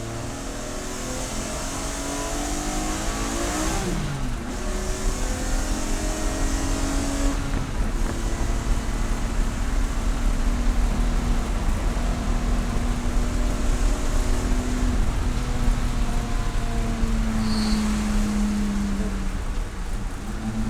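Race car engine running hard on track, its pitch climbing under acceleration and dropping back at gear changes and braking, again and again.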